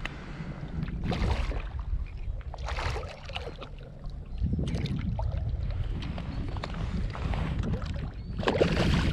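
Wind buffeting the microphone in a low rumble, with water sloshing and splashing in several washes, loudest near the end.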